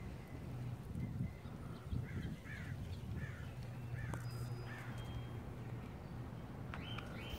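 A bird giving a run of about five short calls, roughly half a second apart, over a low steady background hum.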